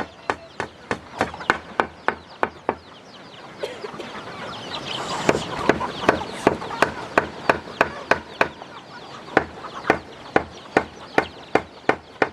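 Chickens clucking over a steady, rapid knocking of about three sharp strikes a second. The clucking is busiest around the middle.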